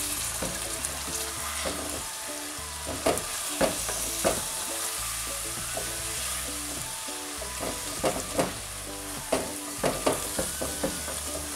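Chicken and ground spices sizzling in hot oil in a stainless steel pot while being stirred with a wooden spatula, which scrapes and knocks against the pot now and then.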